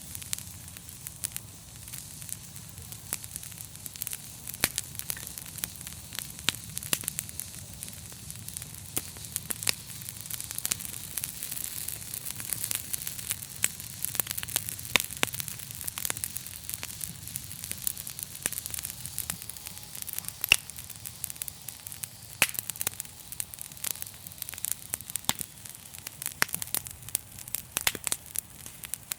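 Wood fire in a fireplace crackling, with many irregular sharp pops and snaps over a steady hiss, and a low hum underneath.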